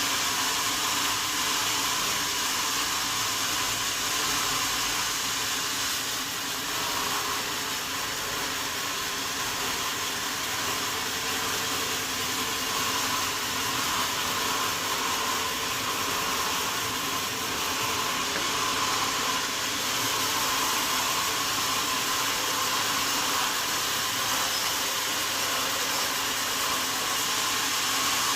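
Sawmill saw running steadily: an even whirring hiss with a faint hum underneath, unbroken by any knocks.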